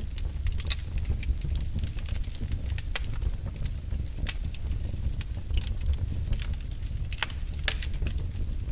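Wood fire in a fireplace crackling: irregular sharp pops and snaps, several a second, over the low steady rumble of the flames.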